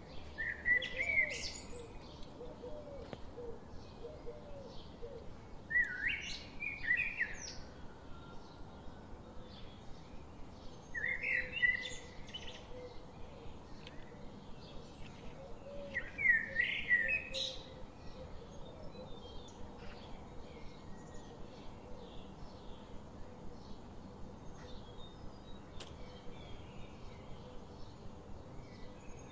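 A songbird singing a short warbled phrase about every five seconds, four times, over a steady fast ticking of about four ticks a second.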